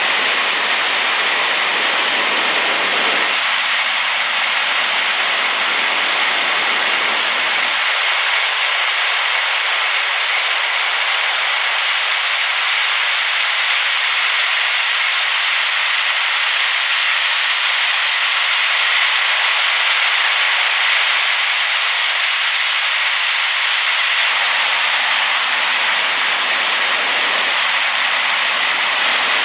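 Waterfall rushing with a steady, loud roar of falling water, its flow heavy from a rain-swollen river.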